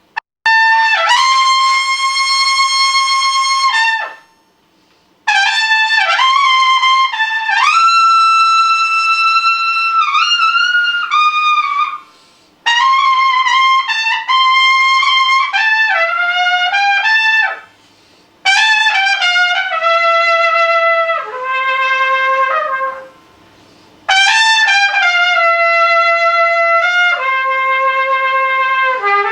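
An unaccompanied brass instrument playing a solo: five phrases of held and stepping notes, each broken off by a short pause for breath.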